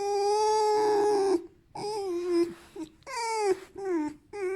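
Pet fox squeaking: one long, drawn-out whiny squeak, then four shorter ones that drop in pitch at their ends. It sounds like moaning, but the owner takes it as a contented fox demanding to be petted and hugged, not a sign of pain.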